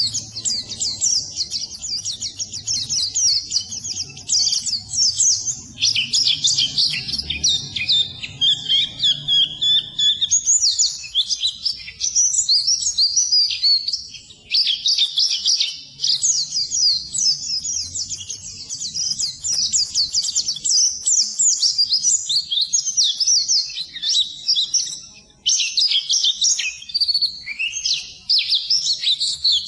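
White-eye (pleci) singing a fast, unbroken stream of high twittering chirps, the chattering song that keepers call ngeriwik, with a few brief pauses.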